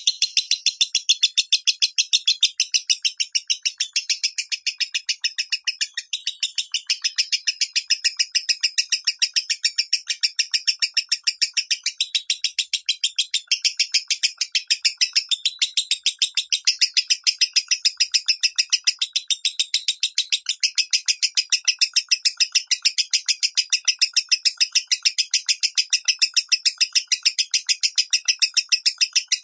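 Lovebird singing its 'minor' song: an unbroken run of short, high, shrill chirps, about three or four a second.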